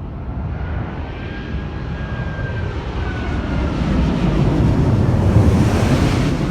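Airbus A380 jet airliner with Rolls-Royce Trent 900 engines passing close, its engine rumble building steadily to a peak near the end. A faint whine runs through it and slides slightly down in pitch.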